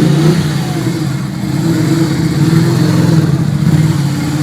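A vehicle engine running steadily and close, with a constant low hum over a lot of noise.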